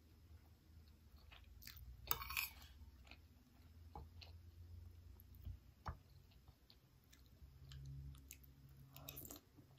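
Faint chewing of soft glutinous rice in durian kolak. A metal spoon clicks a few times against a ceramic bowl, and there is a brief louder sound about two seconds in.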